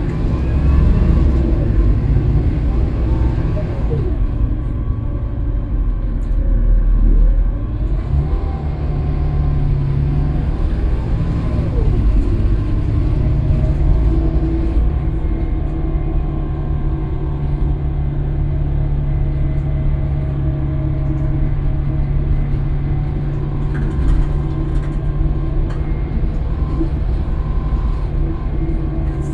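Scania K320UB bus's five-cylinder diesel engine running, its note rising and falling through the first dozen seconds as the bus pulls and shifts, then holding steady.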